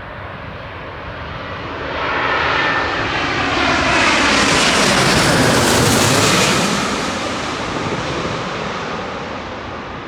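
Large jet airliner passing low overhead on its landing approach. The engine noise builds, is loudest from about four to seven seconds in with a sweeping shift in pitch as it goes by, then fades away.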